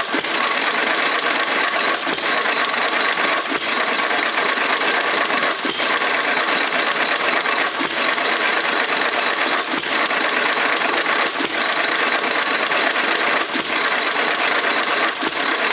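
1925 Jaeger 2 hp single-cylinder hit-and-miss engine running, a continuous mechanical clatter with a sharper knock every one to two seconds at an uneven spacing.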